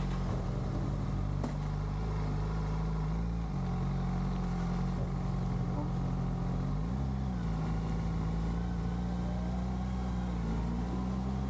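2023 Suzuki Hayabusa's 1340 cc inline-four running at low revs as the bike pulls away and rides slowly. The engine note shifts about three seconds in and briefly rises and falls about seven seconds in.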